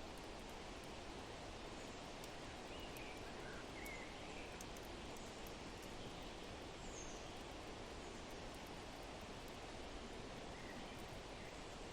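Steady rushing wind ambience with faint bird chirps a few times and light, scattered crackling from a fireplace.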